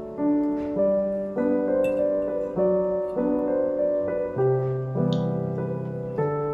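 Background piano music: soft, even chords struck about every half second.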